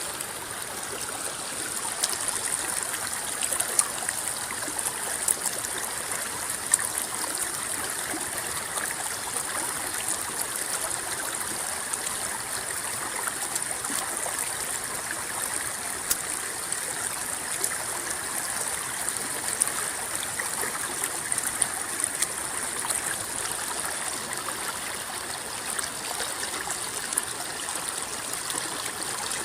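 River water rippling and babbling in a steady stream, with scattered small splashes; it cuts in abruptly at the start.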